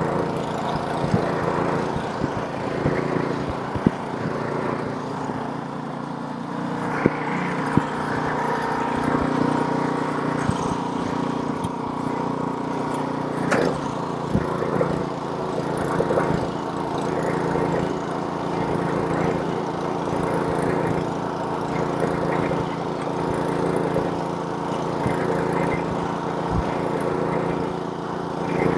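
Snowblower's small gasoline engine running steadily, with a few sharp clicks over it.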